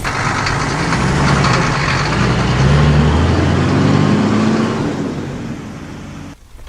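Cartoon truck engine sound effect, running and revving with its pitch rising, then fading and cutting off about six seconds in.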